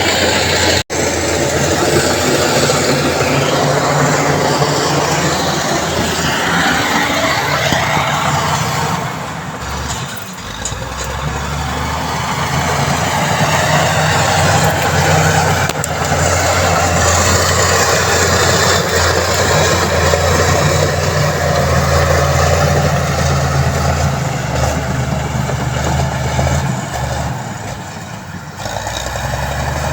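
Heavy truck engine running steadily, with a brief cut-out about a second in and the level sagging twice, around a third of the way through and near the end.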